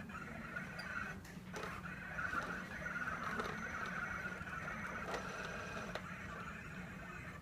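Roomba robot's motors running with a steady whine, with a few light knocks along the way.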